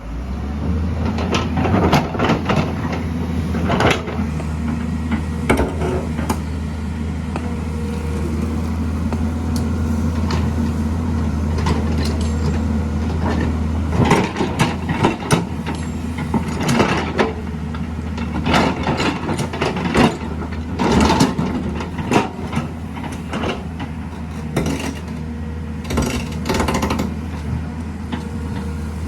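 Heavy construction machine's diesel engine running steadily, with many sharp metallic clanks and knocks over it, thickest in the second half.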